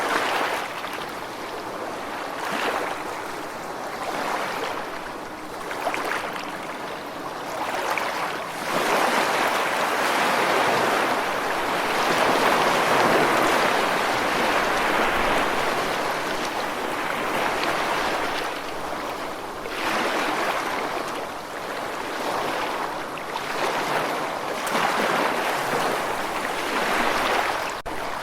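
Ocean waves breaking and washing on a shore, a continuous surf rush that swells and ebbs, at its fullest for several seconds in the middle.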